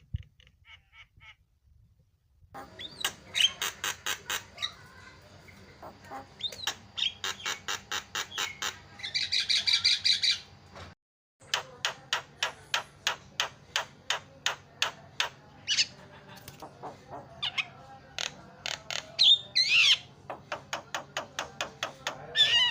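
Javan myna (jalak kebo) calling without pause: fast runs of harsh, clicking chatter at about three to four notes a second, mixed with squawks and a few whistled notes. It cuts out for a moment about eleven seconds in, over a steady low hum.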